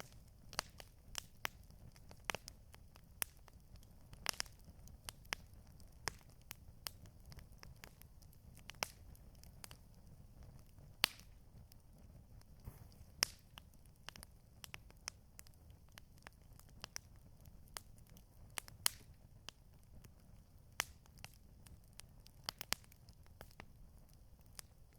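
Campfire crackling: irregular sharp pops and snaps of burning wood, a few louder cracks among many small ticks, over a steady low rumble.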